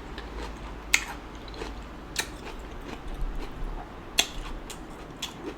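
Chewing and biting of a sauce-covered seafood boil, with a few sharp clicks about one, two and four seconds in.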